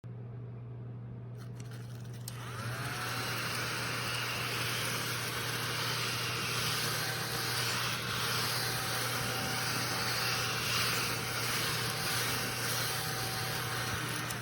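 A small handheld vacuum cleaner's motor switching on about two seconds in, spinning up with a rising whine. It then runs steadily with a whooshing suction noise and winds down at the very end.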